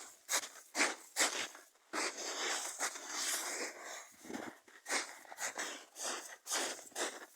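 Boots stamping and crunching in snow to put out the last campfire embers: a quick run of sharp steps, with a longer scuffing sound about two seconds in.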